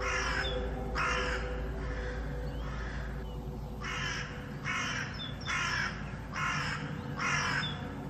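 A crow cawing repeatedly: a run of short, harsh caws that pauses for about two seconds midway, over a steady low hum.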